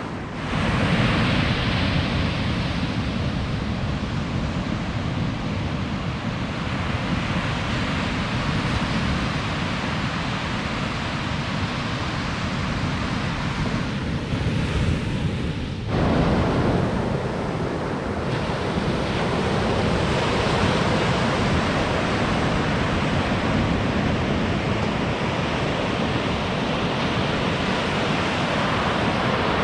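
Ocean surf breaking and washing on a beach, with wind noise on the microphone; the sound changes abruptly about halfway through.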